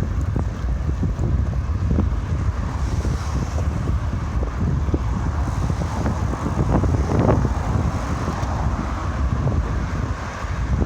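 Wind buffeting the microphone of a camera riding along on a bike, a steady low rumble with many small knocks and rattles scattered through it.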